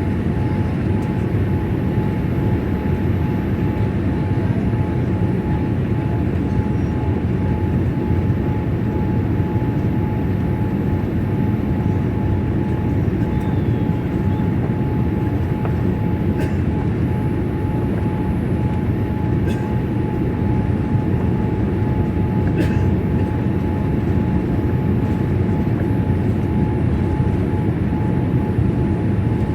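Steady cabin noise inside a Boeing 787-8 Dreamliner in flight: the engines and the rush of air over the fuselage, with a thin steady whine held throughout.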